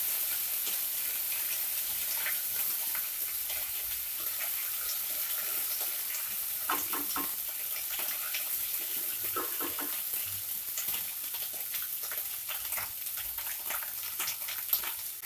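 Ginger-garlic paste and whole spices sizzling in hot oil in a kadhai: a steady sizzle with many small crackles, and a spatula scraping and tapping the pan as the paste is sautéed.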